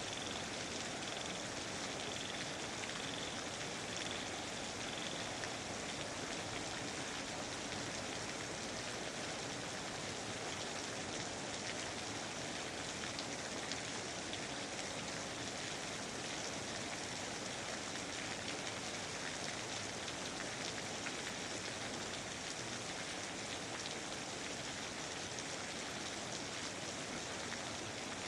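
Steady, even rainfall: a dense patter of raindrops hitting surfaces, with no lulls or gusts.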